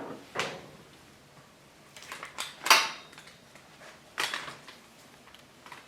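A few short scrapes and clicks of grooming tools being worked and handled, the loudest a little under three seconds in.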